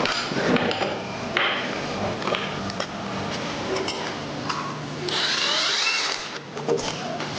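Workshop work on an engine: scattered clanks and knocks of hand tools on metal parts, with a loud hissing, whirring burst of about a second, about five seconds in, from a power tool or air tool.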